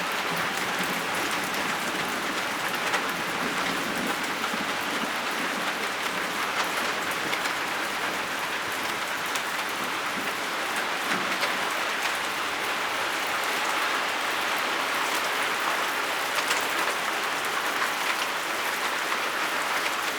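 Steady, moderate rain falling and pattering on surfaces, with scattered faint drop ticks throughout.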